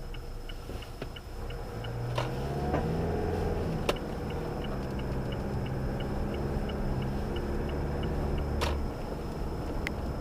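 Mazda CX-5 (KE) on the move, a low rumble with a few sharp knocks, the loudest about four seconds in. This is the knock the car is being recorded for. A light, fast, even ticking runs under it.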